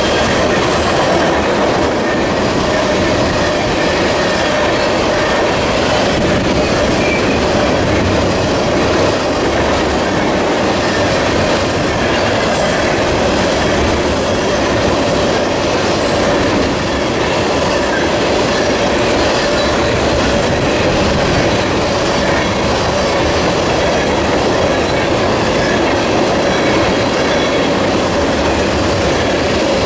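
A long string of empty ethanol tank cars rolling steadily past on the rails, a continuous loud rumble of steel wheels with a steady ringing tone running through it.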